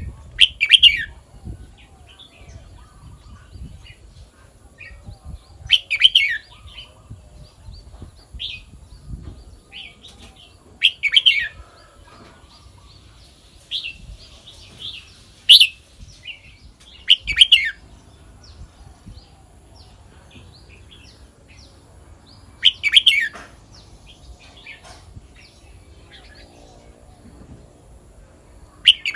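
Red-whiskered bulbul singing: short, loud warbled phrases repeated about every five to six seconds, with softer chirps in between.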